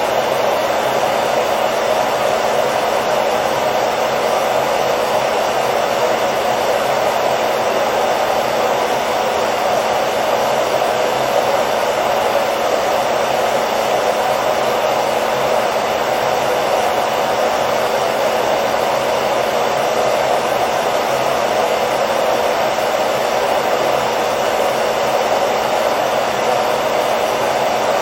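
Hair dryer running steadily: an even fan-and-airflow noise, strongest in the low-middle range, with faint steady hum tones and no change in speed.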